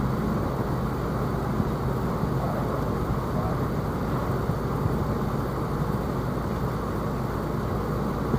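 Air conditioner running steadily: an even hum and fan rush with no changes.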